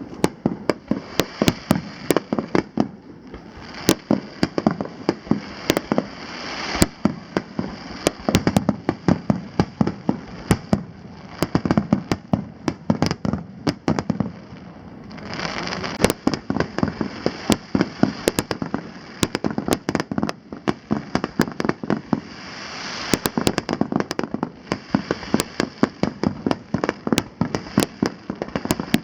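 Aerial fireworks in a rapid barrage: many sharp bangs a second, one after another, over a running crackle and hiss from the bursting shells.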